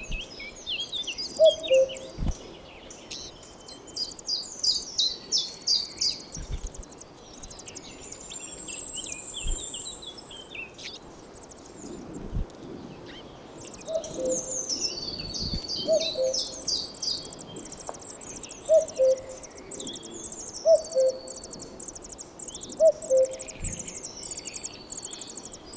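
Nestlings giving rapid, high-pitched begging chirps as they compete for food. Behind them, a common cuckoo's two-note 'cuck-oo' call, falling from the higher note to the lower, repeats about every two seconds near the start and again through the second half.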